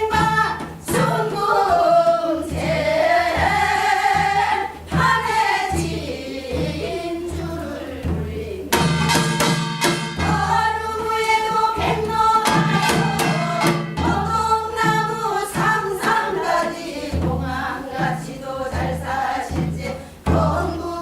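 Korean gyeong-seodo folk song sung by a group of voices with wavering, sliding pitch, over a regular low drum beat.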